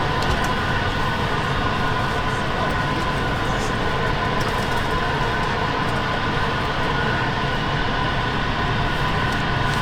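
Steady airliner cabin hum and rushing air inside an Airbus A220, with a constant whine of a couple of held tones over a broad, even rumble.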